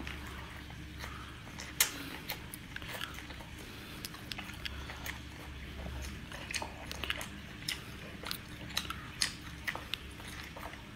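A person biting and chewing lobster tail meat close to the microphone: a scatter of short, quiet mouth clicks and crackles over a faint low hum.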